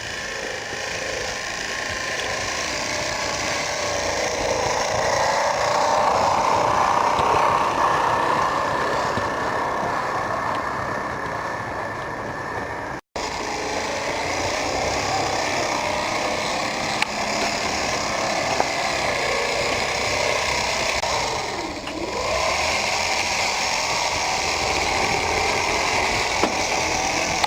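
Garden-scale model locomotive running along the track: a steady motor and gear hum whose pitch rises and falls as it speeds up and slows, with a few light clicks. The sound breaks off for an instant about halfway.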